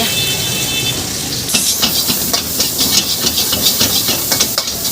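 Chicken chowmein stir-frying in a hot wok: steady sizzling. From about a second and a half in, the metal spatula scrapes and clanks against the wok several times a second as the noodles are tossed.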